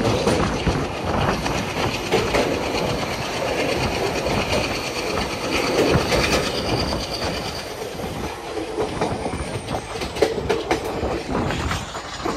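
A passenger train running at speed, heard from an open door of a coach: a steady rumble with the wheels clattering over the rail joints. Partway through there is a faint, thin wheel squeal.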